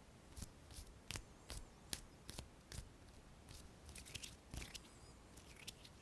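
Close-miked ASMR hand sounds: a faint string of short, crisp clicks and rustles, irregularly spaced, bunching together about four seconds in.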